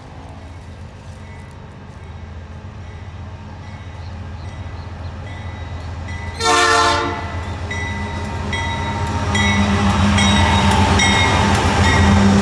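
Diesel freight locomotive approaching, its engine rumble growing steadily louder, with one short horn blast a little past halfway.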